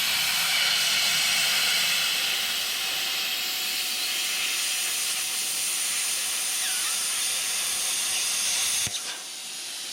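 Hobart Airforce 27i plasma cutter cutting through a steel bar: a loud, steady hiss of the arc and air jet. It cuts off sharply with a click near the end, leaving a quieter hiss.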